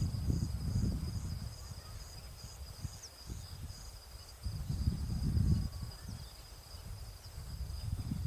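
Outdoor ambience of insects: a steady high thin drone with a pulsing high chirp about three times a second that stops about halfway. Under it, low rumbling gusts of wind on the microphone come and go, swelling loudest just past the middle.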